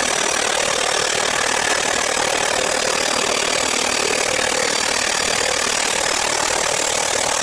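Metal-cutting abrasive chop saw running steadily, a loud even noise with a faint high motor whine.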